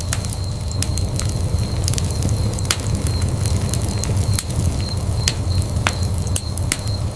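Fireplace fire crackling, with frequent sharp, irregular pops and snaps over a steady low rumble.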